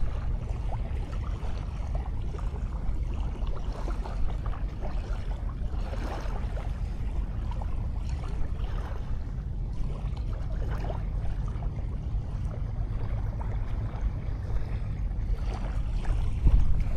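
Sea waves washing on the beach, mixed with a steady low rumble of wind on the microphone.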